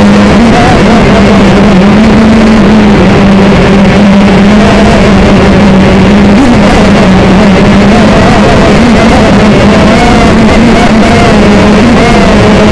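Electric motors and propellers of an FPV multirotor, recorded very loud and distorted, with a steady drone and pitch that wavers up and down as the throttle changes.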